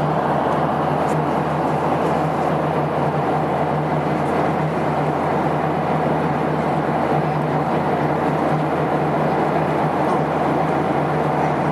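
Steady airplane cabin noise: an even rushing sound with a constant low hum underneath, unchanging throughout.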